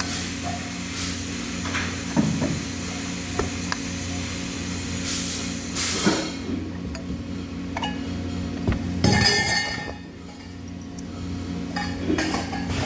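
Metal parts clinking and knocking as they are handled, with a few short rushes of noise, over a steady low hum.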